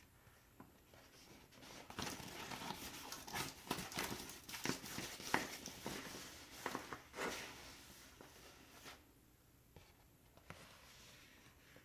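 A dense run of small clicks, taps and crinkly rustles from objects being handled close to the microphone. It starts about two seconds in and dies away about seven seconds later. There is no steady buzz.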